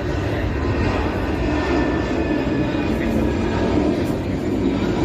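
Jet airliner engines heard across the airport, a steady loud rumble with a faint high whine above it.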